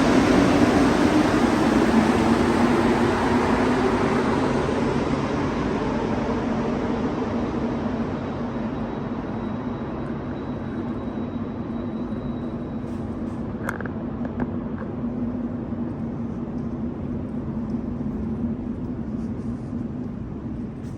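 Rubber-tyred metro train pulling away through the station, its rumble loud at first and fading over several seconds into a steady lower hum.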